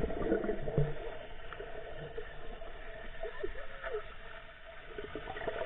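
Water park background: a steady wash of water noise with faint, distant voices.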